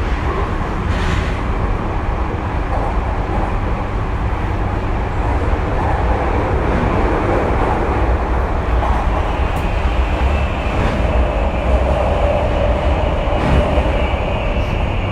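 Tokyu 2020 series electric train running, heard from on board: a steady rumble of wheels on rail and running gear, with a tone from the drive growing louder in the later part.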